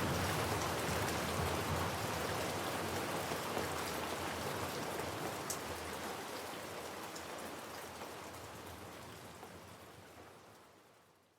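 Steady rain falling, an even hiss with scattered drop ticks, with the low rumble of a thunderclap dying away at the start. The rain fades out gradually over the second half and ends in silence.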